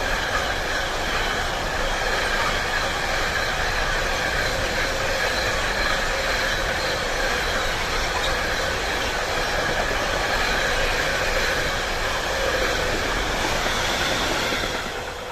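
A train rolling past on the rails, a steady loud rumble of wheels with faint high squealing tones, fading away near the end.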